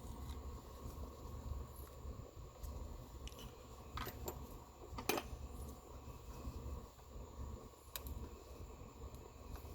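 A few light metallic clicks and clinks of tools and small parts being handled, the sharpest a little after four and five seconds in and another near eight seconds, over a low steady rumble.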